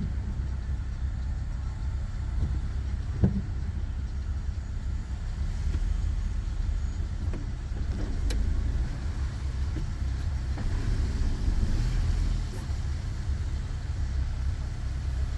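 A car being driven along a road: a steady low rumble of engine and tyres, with a few short knocks, the sharpest about three seconds in.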